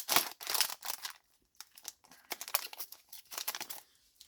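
Yu-Gi-Oh booster pack's foil wrapper being torn open and crinkled: a dense run of crackling in the first second, then scattered crinkles.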